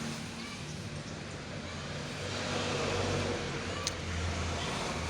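Truck engine running steadily at a low idle, with a brief click about four seconds in.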